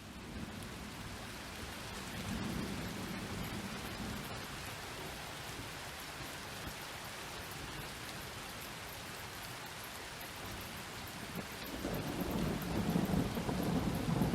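Steady rain pattering, with rolling thunder: a low rumble swells about two seconds in, and a louder one builds near the end.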